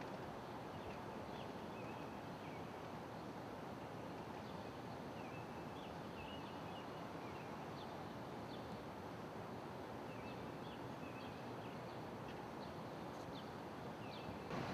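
Small birds chirping on and off in short high notes over a steady low background hum.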